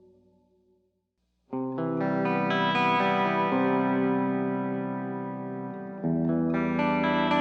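Electric guitar played through the XVive MaxVerb reverb pedal. A faint reverb tail dies away, then a chord is struck about a second and a half in and rings out long, and a second chord follows near the end.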